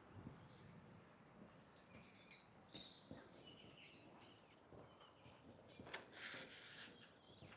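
A songbird singing two faint phrases about five seconds apart, each a rapid high trill that steps down in pitch.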